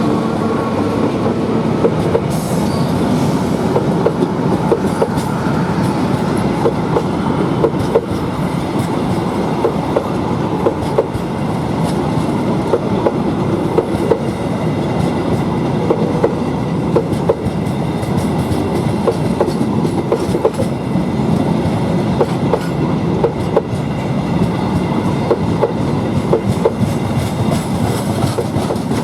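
Ranggajati passenger train passing close by, loud, its wheels clacking steadily over the rail joints.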